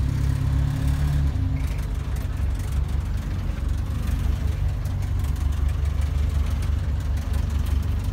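Toyota Kijang Kotak's four-cylinder petrol engine idling, heard from inside the cab. The note drops a little about a second in, then holds a steady idle.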